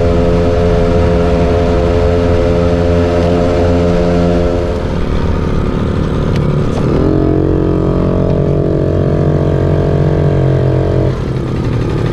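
Moped engine running at a steady speed while riding, easing off about five seconds in. It revs up again about two seconds later and holds a steady, higher note before easing off near the end.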